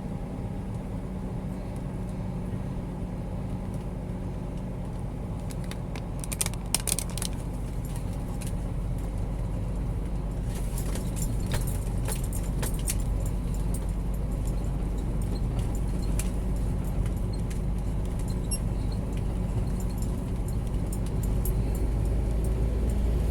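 Scania G 410 truck's diesel engine running steadily, heard from inside the cab on the move, with light jingling rattles like keys or loose items in the cab, thickest about six seconds in and again from about ten seconds in. The hum grows slowly louder toward the end.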